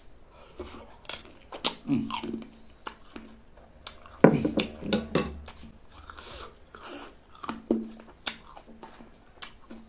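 Close-miked eating sounds: a small whole yellow fruit bitten and chewed with crunching and wet mouth clicks, and short hums from the eater about two and four seconds in.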